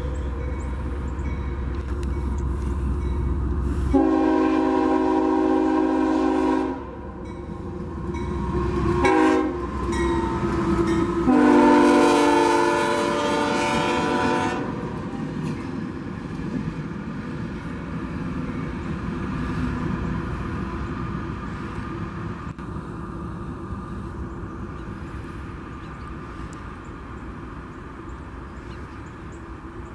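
Diesel locomotive's multi-chime air horn sounds a long blast, a short one and a long one, the close of a grade-crossing signal, over the low rumble of the passing train. Afterwards the train's running noise fades steadily.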